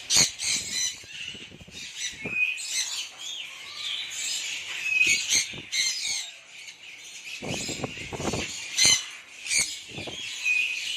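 A flock of conures calling in an aviary: many short, shrill squawks and chirps overlapping throughout, with a short rustling burst a little after halfway.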